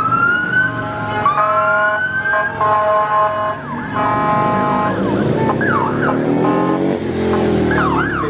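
Police motorcycle siren sounding: long rising wails with steady tones in the first half, then quick up-and-down yelp sweeps in the second half. A motorcycle engine revs up about five to seven seconds in.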